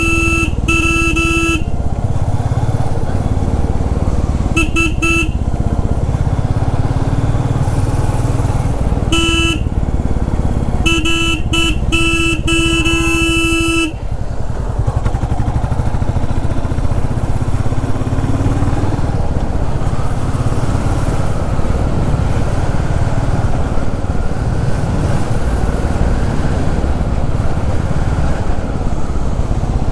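Royal Enfield Classic 350's single-cylinder engine running at road speed. A horn honks in short blasts through the first half: twice at the start, once at about five seconds and once at about nine, then a quick run of toots from about eleven to fourteen seconds. After that the engine runs on alone.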